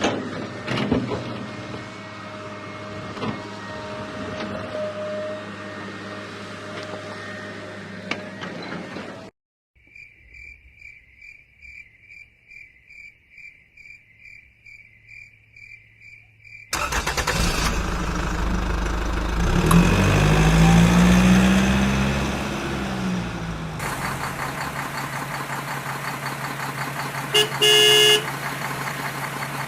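A sequence of truck sounds with abrupt cuts between them. First a steady mechanical hum with some clicks. Then a regular high beep about three times a second, like a reversing alarm. Then an engine starts and revs up and down before settling into a steady idle, with one short horn blast near the end.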